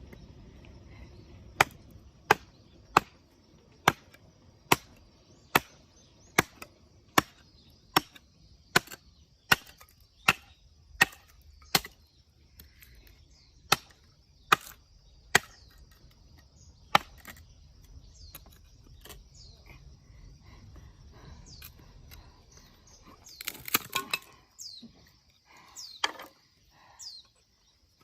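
Firewood being chopped: a blade striking into wood in sharp, evenly spaced chops, about one a second for the first twelve seconds, then a few more spaced further apart. About twenty-four seconds in comes a rougher cracking clatter of wood.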